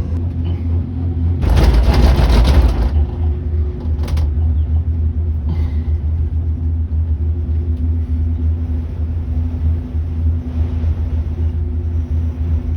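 Steady low rumble and hum inside a Skyrail cable-car gondola. About a second and a half in, a louder rushing noise lasts just over a second, and a short click follows near four seconds in.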